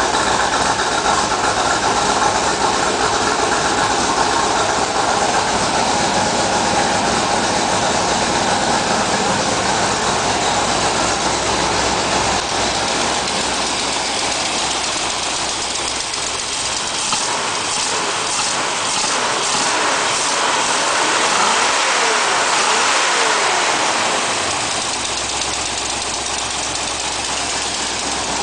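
Ford 5.0 V8 idling roughly and unevenly, the fault the owner is showing. The sound is steady throughout and eases a little about halfway through.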